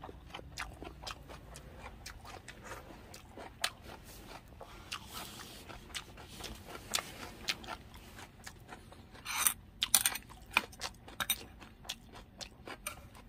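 Close-up chewing of a napa cabbage wrap of raw halfbeak sashimi: a run of crunches and wet mouth clicks, with a louder burst of crunching about three-quarters of the way through.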